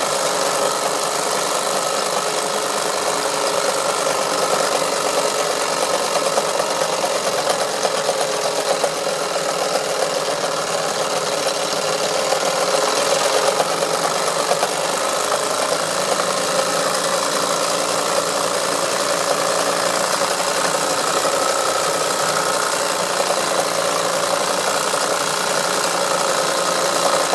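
Wilesco D141 toy steam engine running steadily under steam, driving its model workshop tools, with a continuous mechanical running sound and a steady whine.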